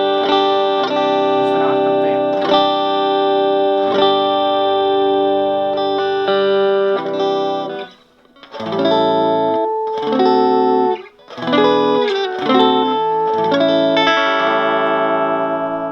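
Gibson Les Paul Studio electric guitar played through the 25-watt Round Digital Sound GX-25 amp's clean channel with the bass control turned fully up: long ringing chords, breaking off briefly about eight seconds in and again near eleven, then shorter chords.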